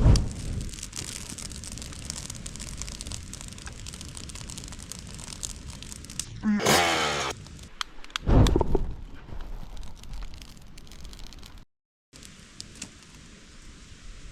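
Campfire being started with fuel: crackling and rustling throughout, with two sudden low whooshes, one at the very start and one about eight seconds in, and a brief wavering squeal just before the second.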